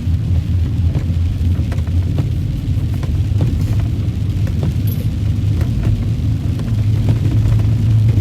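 Steady low drone of a Jeep on the move, heard from inside the cabin: engine and road noise from the tyres, with a few faint ticks.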